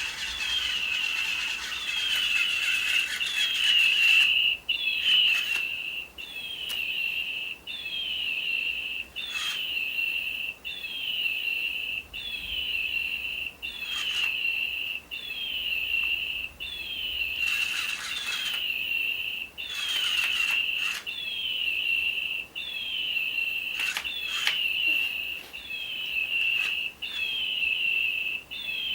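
Electronic toy bird chirping in a mechanical loop: a short high falling chirp that settles into a steady beep, repeated evenly about every second and a half, with occasional clicks.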